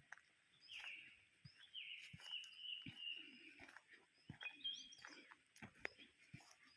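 Songbirds singing short chirping phrases in a forest, with scattered soft clicks and snaps of footsteps on the forest floor.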